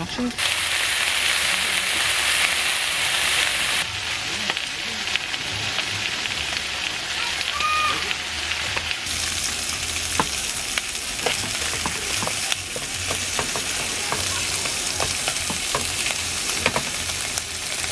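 Pork belly sizzling in a hot pan, fat spitting with scattered sharp pops over a steady hiss.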